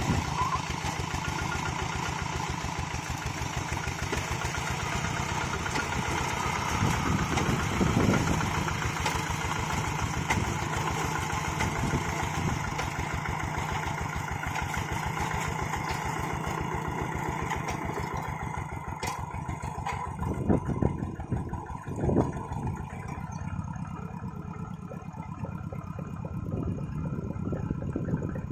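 Two-wheel hand tractor's single-cylinder diesel engine running at low throttle with a fast, even chug, as the tractor is driven slowly; a few louder clanks about two-thirds of the way through.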